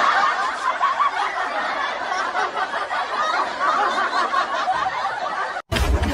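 Many people laughing and chattering at once, a dense crowd of laughter. Near the end it cuts off suddenly and music with a heavy bass begins.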